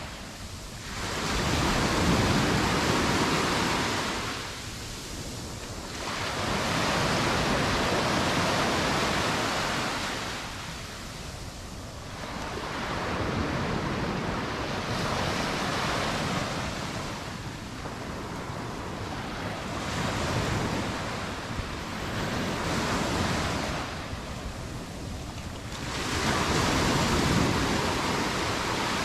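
Mediterranean surf breaking on the beach, the wash of each wave swelling and falling away every four to six seconds.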